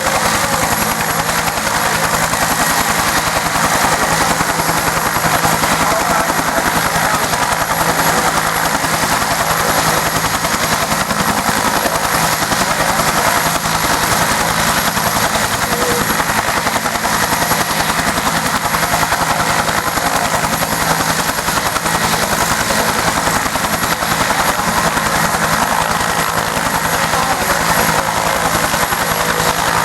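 UH-1 Huey helicopter running loud and steady: a continuous turbine whine over the rapid, even beat of the rotor blades.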